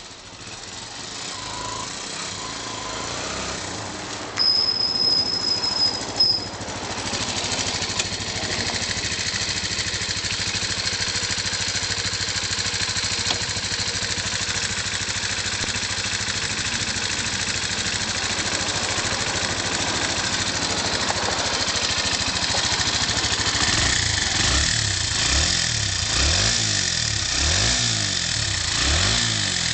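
Honda CBX125 Custom motorcycle engine running after being started, settling into a steady idle. Near the end it is revved several times in quick blips that rise and fall in pitch.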